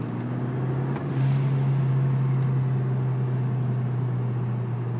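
Turbocharged 2.0-litre four-cylinder engine of a Hyundai Genesis Coupe pulling hard in third gear, heard inside the cabin with the windows up. Its steady low drone gets louder about a second in and holds, after a brief faint hiss.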